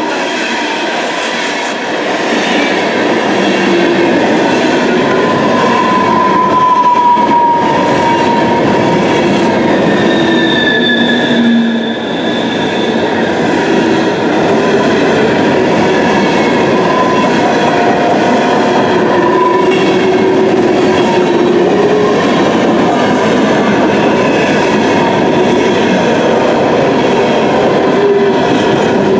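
Empty CSX coal hopper cars rolling past close by: a loud, steady rumble and rattle of steel wheels on rail, with thin squealing tones from the wheels that come and go.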